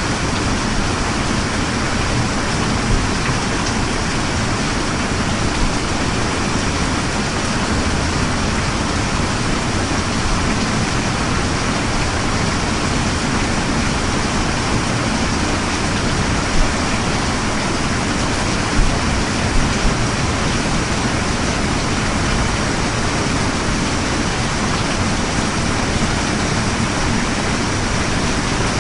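Steady rain falling, an even hiss with a few slightly louder drops here and there.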